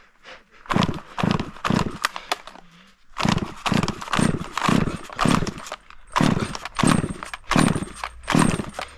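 Climbing spurs biting into a white fir's trunk as a climber steps up the tree: a run of short, sharp knocks at about two a second, coming faster in the middle.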